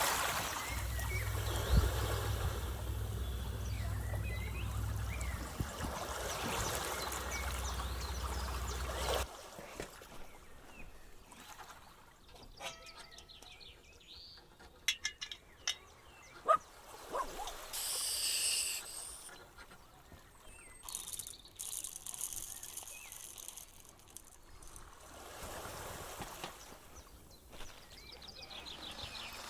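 Seaside outdoor sound: a steady wash of wind and surf with a low rumble for about nine seconds, then it cuts to a quieter stretch with scattered small clicks and a few short bird chirps.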